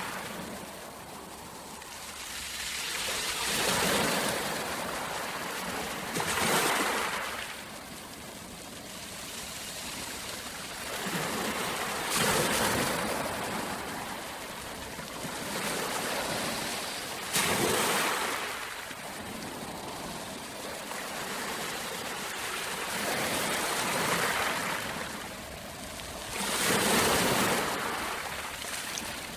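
Rushing water, a steady hiss that swells and fades every few seconds.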